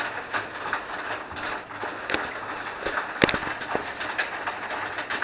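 Water dripping and splashing irregularly onto improvised metal roof sheeting and trays, over a steady hiss of running water. A louder drop or knock comes about three seconds in.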